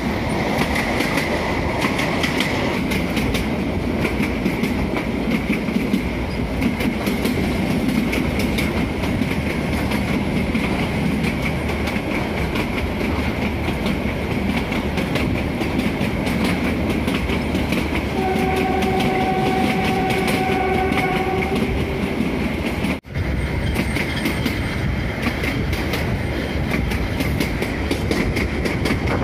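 Kangra Valley narrow-gauge toy train running, heard from a carriage window: a steady rumble with the clatter of wheels on the rails. The train's horn sounds one long note for about three seconds, a little past the middle.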